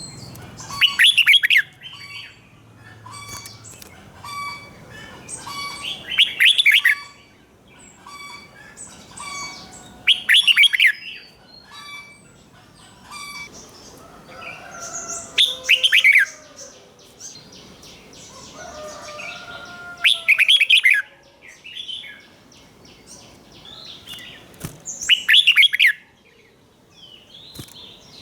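Red-whiskered bulbul singing: a loud, quick song phrase of about a second comes roughly every five seconds, six in all, with softer repeated chirps and warbling between them.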